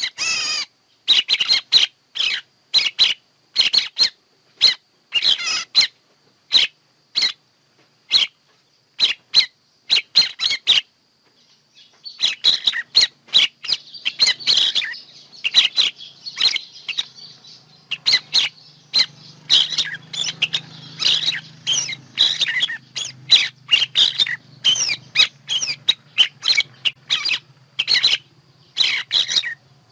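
Birds giving short, sharp chirping calls, repeated one to two times a second. From about halfway through, the calls come thicker and overlap, over a low steady hum.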